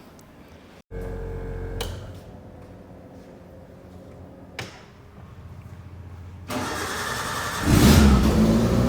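Turbocharged 1.6 Maruti Gypsy 4x4's engine running: a short steady stretch about a second in, then near the end it grows loud and revs up.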